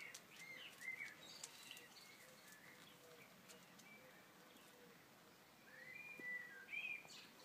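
Faint birdsong: short chirping phrases in the first second and again about six seconds in.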